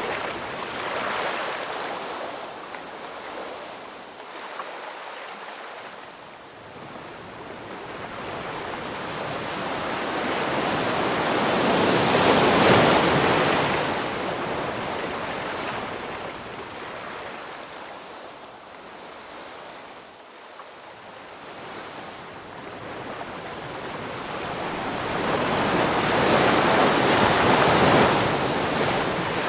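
Ocean surf: a steady wash of waves that swells slowly and falls back. The two loudest waves come about twelve seconds in and near the end.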